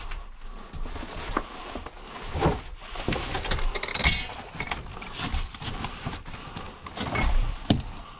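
Irregular knocks, thuds and scuffs, like footsteps and things being bumped while walking through a house.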